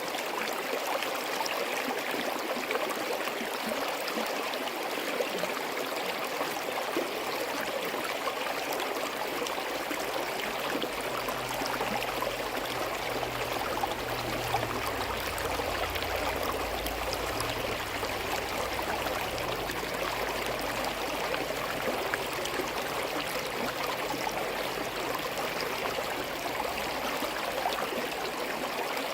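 Small forest stream running steadily, a continuous gurgling flow of water. A low rumble comes in about a third of the way through and fades out about two-thirds through.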